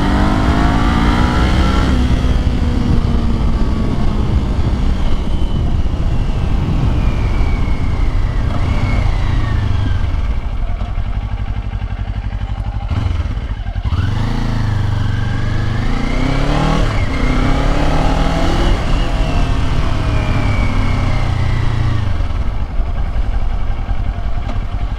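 Kawasaki Ninja 500 SE's parallel-twin engine through its stock exhaust while riding, the engine note rising under acceleration and dropping back several times as the gears change, with a dip and pickup about halfway through. Wind rushes steadily over the microphone underneath.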